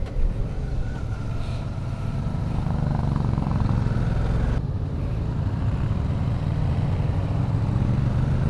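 Motorcycle engine running steadily under way, its note rising slightly about two seconds in, over low wind rumble.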